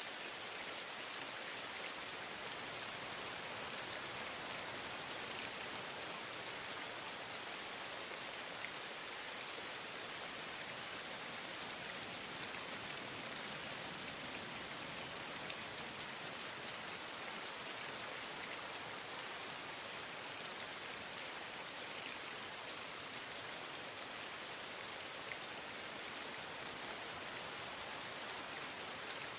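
Steady rain falling, an even hiss flecked with faint ticks of single drops.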